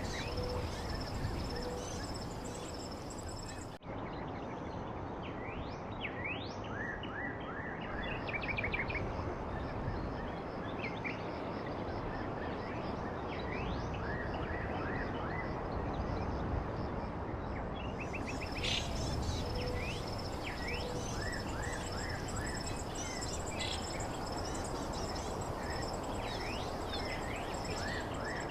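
Several small birds chirping in many short calls and quick sweeping notes over a steady outdoor background hiss, with a brief cut-out about four seconds in.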